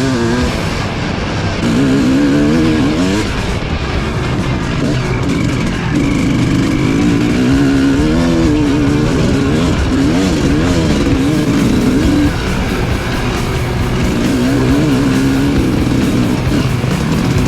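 Dirt bike engine being ridden hard, its pitch rising and falling over and over as the throttle opens and closes. Background music plays underneath.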